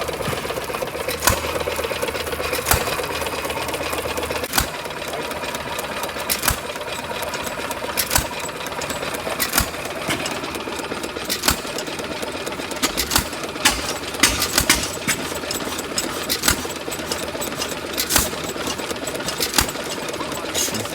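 Antique stationary gas engine running with a sharp firing bang about every one and a half to two seconds, somewhat irregular, over a steady fast mechanical clatter.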